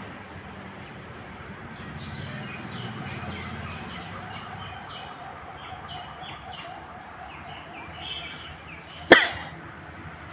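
Birds chirping with many short, repeated calls over a steady low background, broken by one sudden sharp knock about nine seconds in, the loudest sound here.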